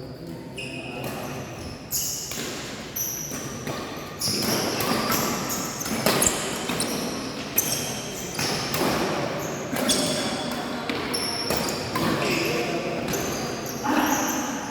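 Badminton play on an indoor court: repeated sharp racket-on-shuttlecock hits and footfalls, with many short high-pitched shoe squeaks on the court floor and some voices, echoing in a large hall.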